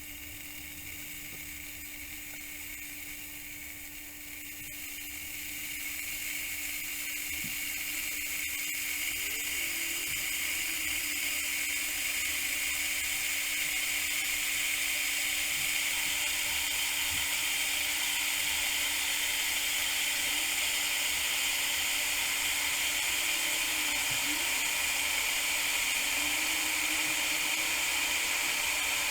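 Electric kettle heating water towards the boil: a hiss that grows steadily louder over the first ten seconds or so, then holds steady.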